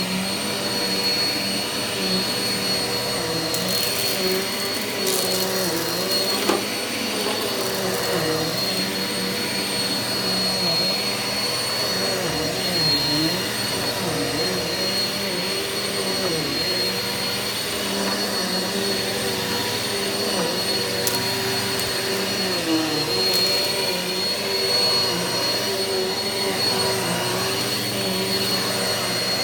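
Eureka vacuum cleaner running without a break over carpet in dry pre-vacuuming: a steady motor hum with a high whine, its pitch dipping slightly again and again as it is worked back and forth.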